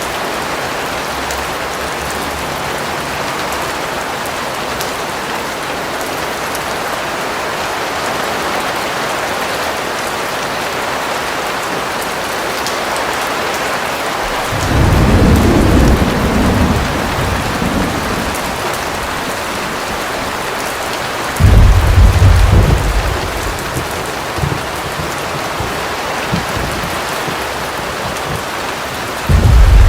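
Steady rain, an even hiss, with two deep rumbles of thunder, the first about halfway through and the second about two-thirds of the way in, each dying away over a few seconds. A third rumble begins right at the end.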